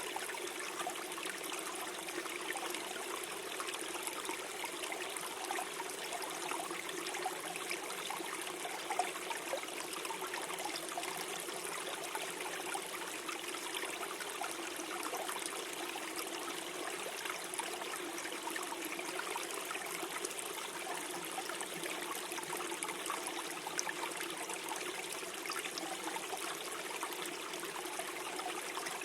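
Small forest stream flowing and gurgling over stones, a steady trickling and bubbling.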